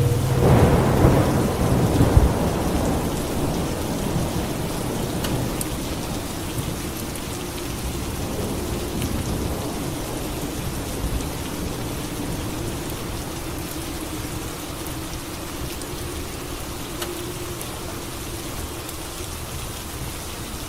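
Steady heavy rain with a thunderclap about a second in that rumbles away over the next few seconds.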